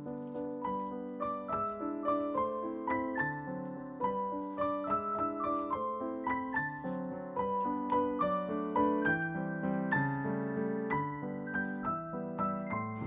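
Background piano music, a steady flow of single notes and chords.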